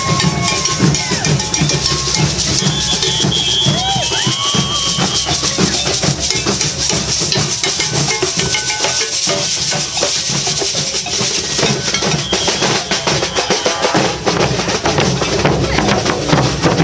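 Procession drums, bass drum included, beating continuously with loud, dense strokes, with voices mixed in.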